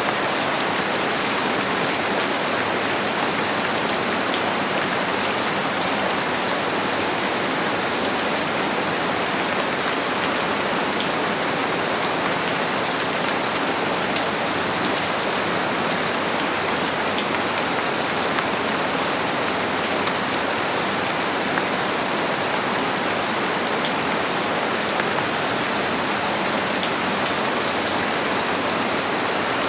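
Steady heavy rain falling, an even hiss dense with small drop taps, with no thunder.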